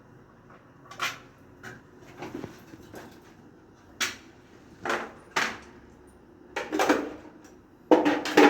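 A series of irregular knocks and clunks from hard objects being handled, as in removing a water heater and its fittings, with the loudest clatter near the end.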